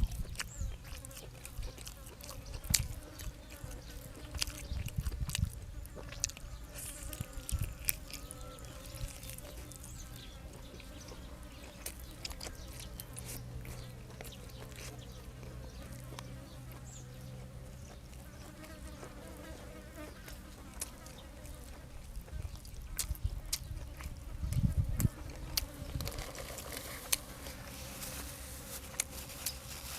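A person chewing food with scattered wet clicks and soft low thumps, over a steady buzzing hum; the chewing gets busier near the end.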